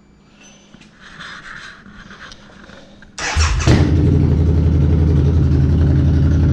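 Harley-Davidson V-Rod Muscle's V-twin cranked by the starter about three seconds in. It catches almost at once and settles into a loud, steady idle with the stock mufflers removed.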